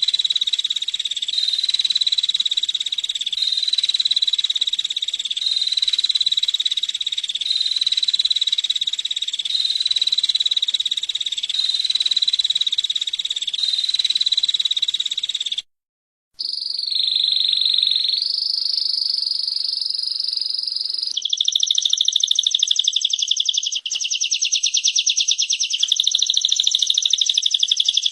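Small songbirds' rapid buzzy trills: a female prinia and a canary. A high trill repeats steadily about every second and a half, breaks off briefly a little past halfway, then gives way to a string of changing trills, the last ones very fast and rattling.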